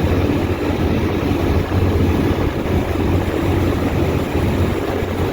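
Thames river-bus catamaran underway: a steady engine drone with rushing water and wind noise, even in level throughout.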